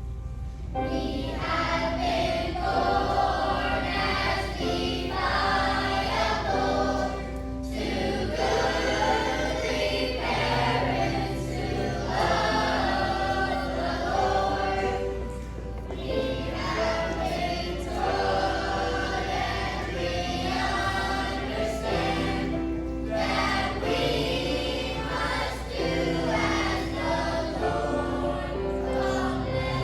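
A choir of young students singing a song with instrumental accompaniment.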